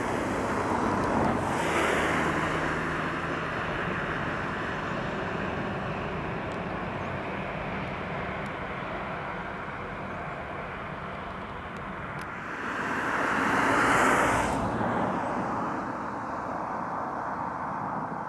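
Distant S-Bahn electric multiple unit running across a high steel railway viaduct, a steady rumble. It grows louder about three-quarters of the way in, then breaks off suddenly.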